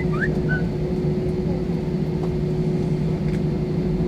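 Cabin noise inside an Airbus A320 taxiing after landing: the steady drone of its IAE V2500 engines at taxi power over a low rumble, with a steady hum running through it. A few faint short chirps near the start.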